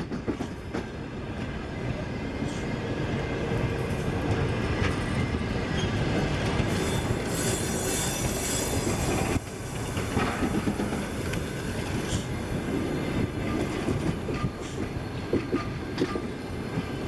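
Express passenger train hauled by a TEP70 diesel locomotive rolling into a station, wheels clacking over the rail joints and squealing as it brakes, with a high screech from about seven to nine seconds in.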